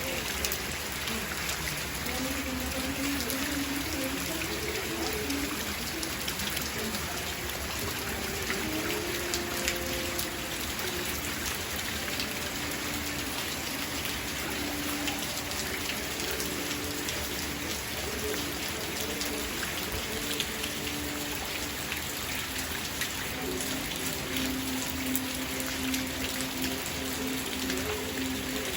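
Steady rain falling, with many separate drops ticking on hard surfaces.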